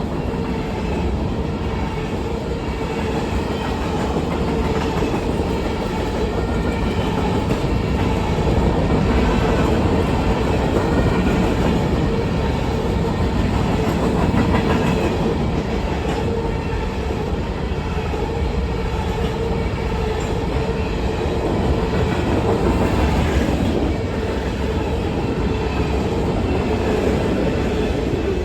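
A short train passing at speed on the CSX main line, a steady loud rumble of wheels rolling on the rails that holds throughout and fades right after the train has gone by.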